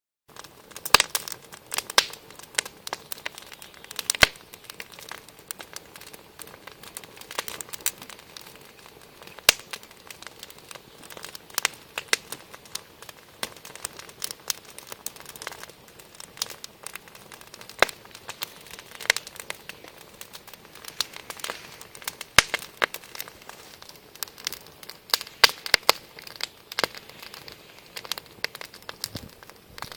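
Wood campfire crackling: irregular sharp pops and snaps over a soft hiss of burning.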